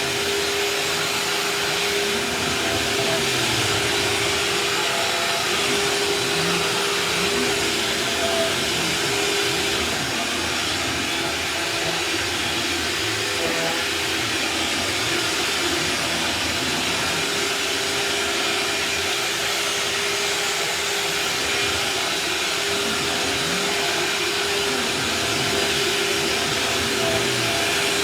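Bagless upright vacuum cleaner running steadily on a floor, a constant hum over the rush of air.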